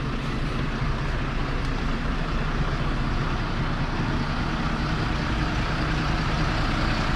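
Bus engine running steadily close by, a constant low hum that neither rises nor falls.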